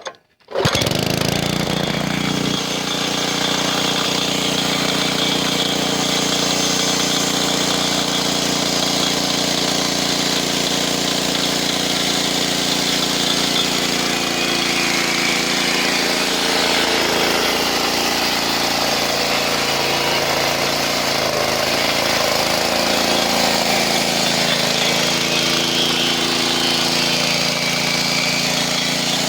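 Hudson Oscar 18 portable bandsaw sawmill running steadily after a sudden start about half a second in.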